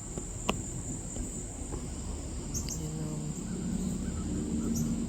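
Steady high-pitched trilling of a cricket chorus, with a sharp click about half a second in and a few faint short chirps.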